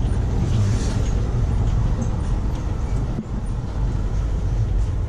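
Passenger train running: a steady low rumble of wheels and running gear heard from inside a rail car, with faint scattered clicks and rattles.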